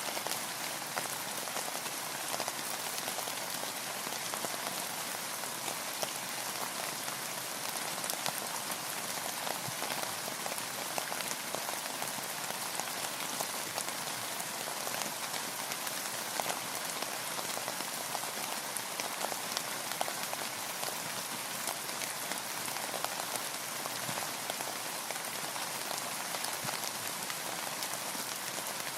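Steady rain falling on a boat and the water around it: an even hiss thick with fine drop ticks, holding at the same strength throughout.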